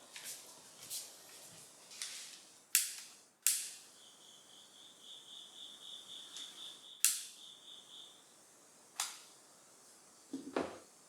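Autumn insect trilling, a steady, high, pulsing song that starts about four seconds in and stops about four seconds later. Around it are irregular sharp high clicks, about nine of them, of which the loudest come near the start and in the middle.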